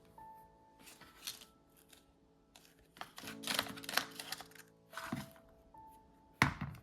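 Soft background music with several short bouts of food-preparation handling noise, cutting and rustling, and one sharp knock near the end.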